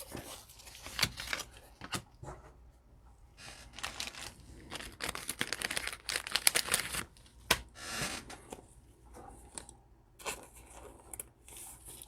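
A foil trading-card pack being torn open and its wrapper crinkled, with cards rustling as they are handled; irregular rustles, and one sharp click about seven and a half seconds in.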